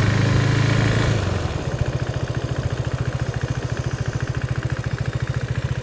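Motorcycle engine easing off, then idling about one and a half seconds in, with a steady, rapid, even pulse.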